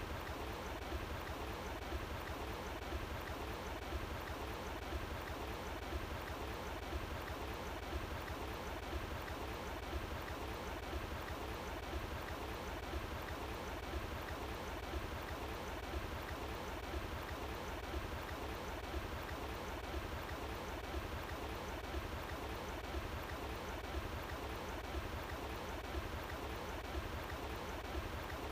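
Water flowing in a stream, a steady, even rush that runs on without a break.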